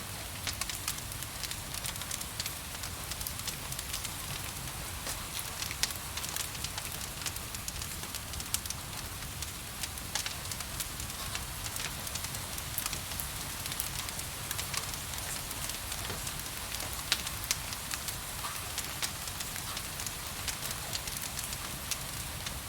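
Wood fire crackling in a fireplace, with many sharp pops and snaps over a steady hiss of rain.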